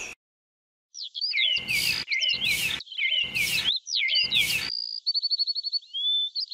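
Small trowel scraping and scooping sand, four strokes of about half a second each, over birds chirping and trilling that start about a second in and carry on alone near the end.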